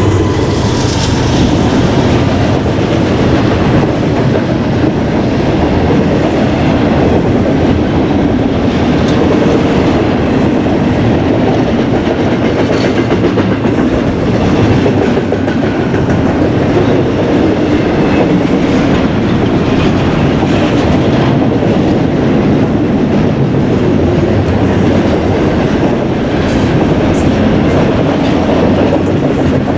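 BNSF freight train rolling past, its wheels making a loud, steady rumble on the rails.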